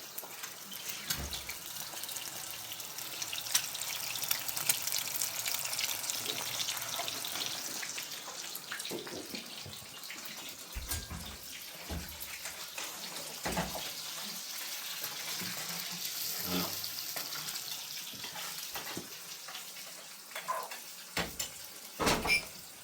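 Water running steadily with a hiss, with scattered knocks and clatter throughout.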